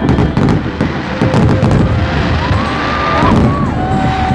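Aerial firework shells bursting in a display: a series of bangs over a continuous low rumble, with more bangs close together near the end.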